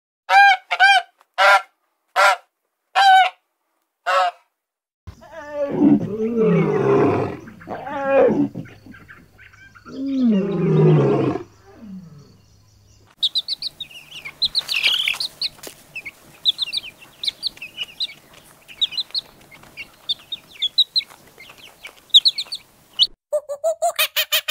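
A goose honking in a series of about seven short calls, then two long, falling, low calls from lion cubs. After that come many short, high chirps, and near the end a fast, even run of squeaky calls from macaques.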